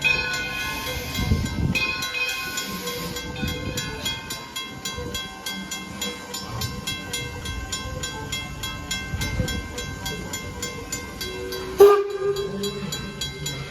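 Train running, with an even clicking throughout. Near the end there is one sharp report followed by a short held tone, like a brief whistle toot.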